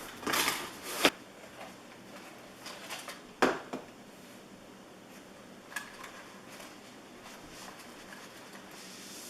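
Objects being handled on a table: a short scraping rustle, a click about a second in, and a sharp knock about three and a half seconds in, with a few faint clicks later, typical of a drone box and its plastic parts being moved about.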